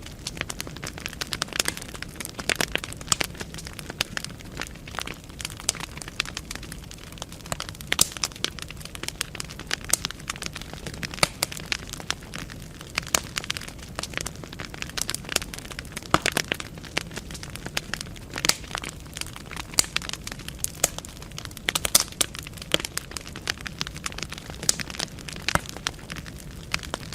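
Wood fire burning in a fireplace, crackling with frequent irregular sharp pops and snaps over a low steady hiss of the flames.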